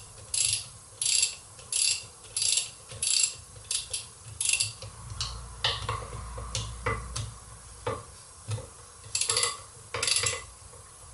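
A ratchet wrench being worked back and forth on a tight clutch bell housing bolt of a T50 gearbox, its pawl clicking in a steady run of short strokes about one and a half a second. The strokes thin out to single clicks midway, then two more come near the end.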